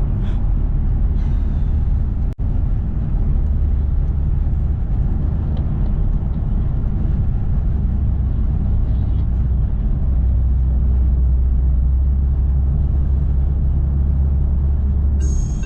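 Steady low drone of a car's engine and road noise heard from inside the cabin while driving. The sound cuts out for an instant about two and a half seconds in.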